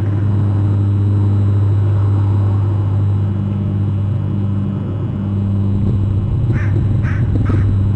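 Steady low hum and rumble from the outdoor camera microphone, and near the end three short, harsh bird calls about half a second apart.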